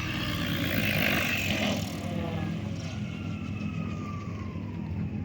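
Goblin RC helicopter's motor and rotor running with a steady hum and whine, the higher tones falling in pitch over the last couple of seconds.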